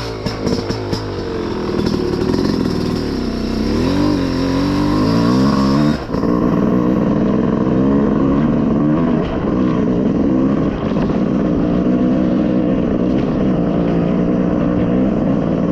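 Small off-road vehicle engine revving up and down as it pulls away, with a brief drop about six seconds in, then running more steadily with small changes in throttle.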